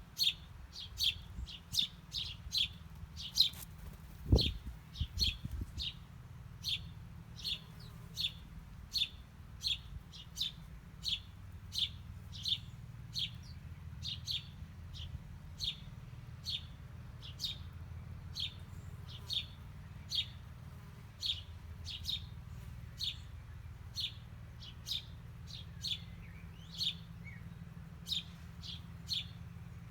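Small songbirds chirping: a steady run of short, high chirps, about one and a half a second. A low thump about four seconds in, over a steady low rumble.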